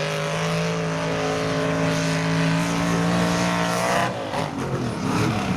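Off-road vehicle engine held at high, steady revs, then letting off about four seconds in.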